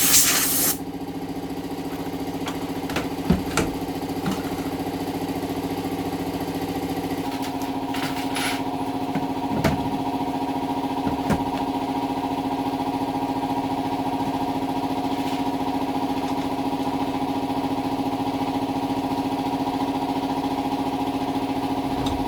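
A car engine idling steadily, its tone shifting slightly about seven seconds in, with a few light knocks. A spraying hiss ends within the first second.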